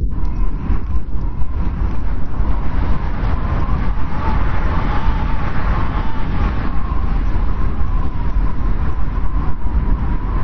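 Blizzard wind blowing hard: a steady low rumble of gusts with a thin, wavering whistle over it that swells about four seconds in.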